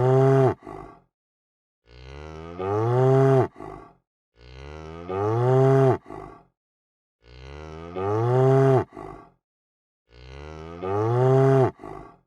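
A cow mooing, the same call repeated about every three seconds with silence in between. Each moo starts softer, swells into a loud call whose pitch rises then falls, and ends with a short grunt.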